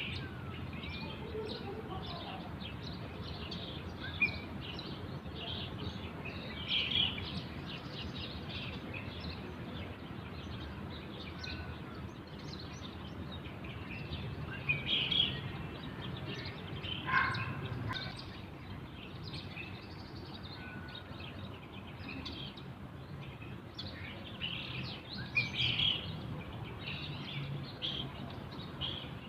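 Birds chirping and calling, short high chirps coming at irregular moments throughout, over a steady low background rumble.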